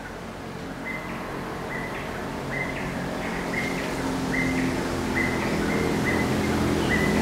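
A bird repeating a short, steady-pitched call over and over, under a low hum that grows steadily louder.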